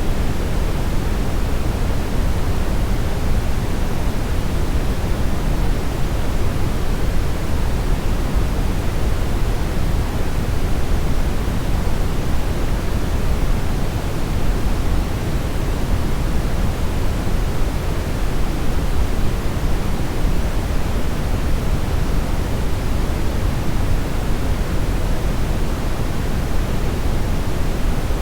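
Steady, even brownish noise: a continuous rushing hiss, heaviest in the bass and thinning toward the top, with no change or rhythm.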